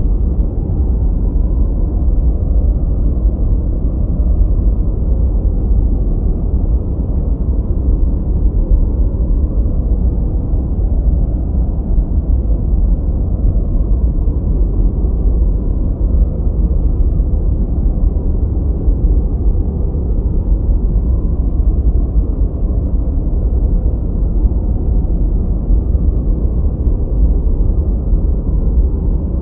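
Steady noise played as a study and sleep sound, the kind sold as white noise, though here it is deep and rumbly with almost no treble, closer to brown noise. It does not change at all.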